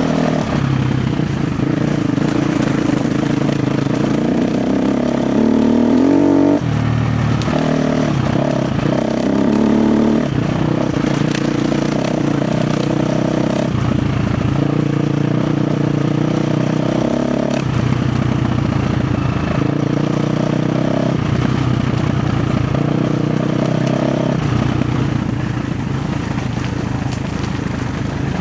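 KTM 350 XCF's single-cylinder four-stroke engine running under load, its revs rising and falling every few seconds as the throttle is worked. There is a longer climb in revs about five seconds in that drops off sharply.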